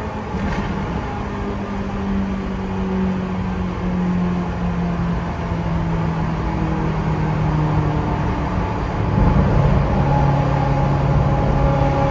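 Ferrari F355's V8 engine and exhaust, heard from the passenger seat, running at part throttle with its pitch slowly falling. About nine seconds in it gets louder as the throttle opens again.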